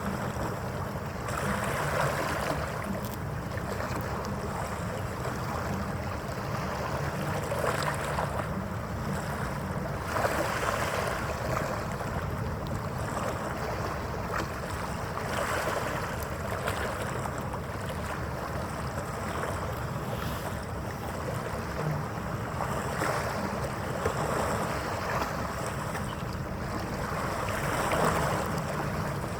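Harbour water lapping and wind buffeting the microphone, over a steady low rumble, with soft swells of noise every few seconds.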